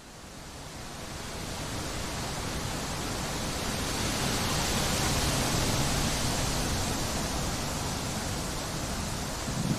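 Wind blowing through trees: a steady rushing noise that fades in over the first couple of seconds and swells slightly midway.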